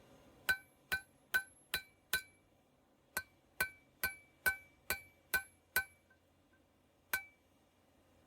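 Hand hammer striking metal on an anvil-shaped object, each blow giving a short bright ring. A run of five blows about two and a half a second, a pause, seven more at the same pace, then one last blow near the end.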